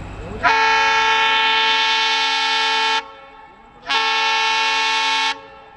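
Indian Railways diesel locomotive horn sounded twice: a long steady blast of about two and a half seconds, then after a short gap a second blast of about a second and a half.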